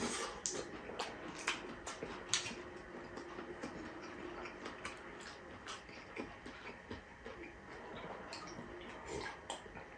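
A person eating close to the microphone: wet chewing and lip-smacking clicks, dense and sharp in the first few seconds, then sparser. Near the end come a few softer mouth sounds as he sips from a glass mug.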